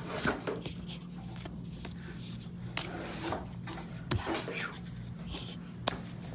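Trading cards being handled: light rubbing and scraping of card stock as they are slid and sorted, with a sharp click just before six seconds in, over a steady low hum.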